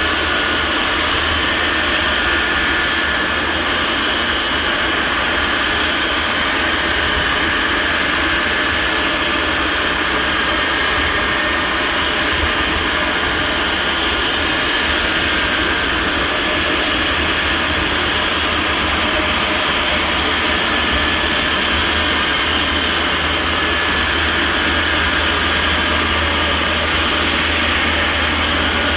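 Boeing 747-251B freighter's jet engines running steadily: a constant dense noise with a steady high whine over it and a deep low rumble, unchanging throughout.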